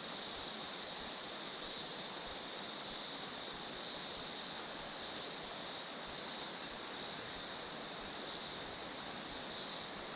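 Creek water running over rocks, with a steady high-pitched insect chorus above it that pulses gently in the second half.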